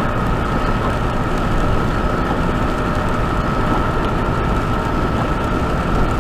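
Steady noise inside a semi-truck cab at road speed: low engine drone and tyre noise, with a thin, steady whine running through it.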